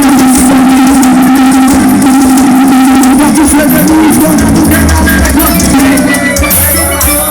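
Loud forró music played through a paredão, a Brazilian car sound-system wall, heavily compressed, with a strong held note and heavy bass coming in about halfway through.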